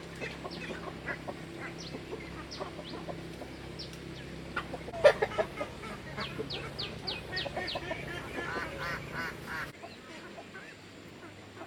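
Chickens clucking, with many short, high, falling calls, over a low steady hum. There is a sharp knock about five seconds in, the loudest thing heard, and the sound drops abruptly near the end.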